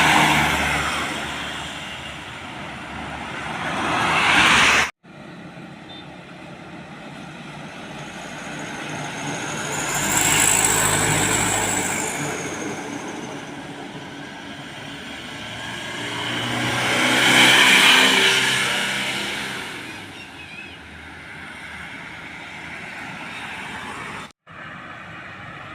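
Heavy road vehicles passing by one after another, each rising to a peak and fading away, with a high whine that falls as the second one goes by. The sound cuts off abruptly twice.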